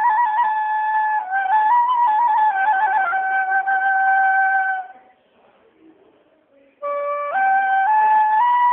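Flute music: a slow melody of long held notes with small ornamental turns, breaking off for about two seconds just past the middle before picking up again.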